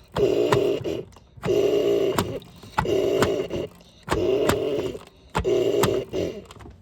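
Washing machine running in short repeated bursts, about one every 1.3 seconds, each with a click at its start and end. It stops near the end.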